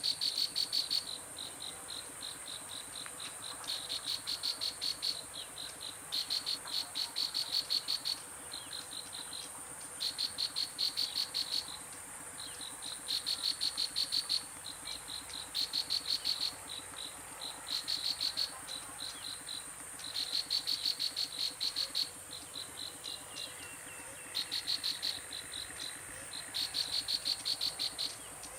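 Insects calling: rapid pulsed chirping trills, each about a second or two long, repeating every couple of seconds over a steady high-pitched insect drone.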